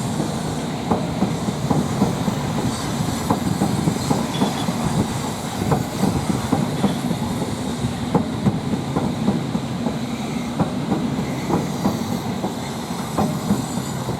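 London Underground District Line S7 Stock train passing close by: a steady rumble of the cars with the wheels clicking irregularly over the track.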